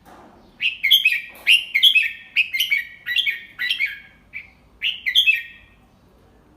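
Red-whiskered bulbul singing: a quick run of short, chirpy whistled notes starting about half a second in and lasting about five seconds.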